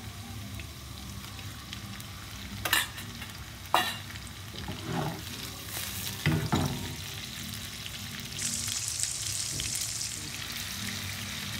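Lamb testicles sizzling as they fry in hot butter and olive oil in a skillet, with two sharp knocks about three and four seconds in and a clatter as the pan is shaken around six seconds in. The sizzle turns brighter and louder for about two seconds near the end.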